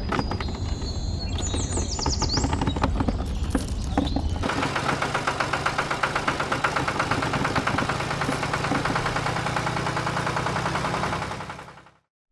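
A small engine or motor running with a fast, even rattle that fades out near the end. Before the rattle starts there is a low rumble with scattered clicks.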